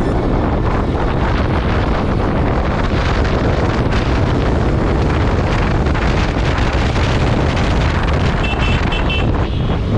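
Wind buffeting the microphone over motorcycle engine and road noise while riding, steady and loud. Three short high beeps sound about eight and a half seconds in.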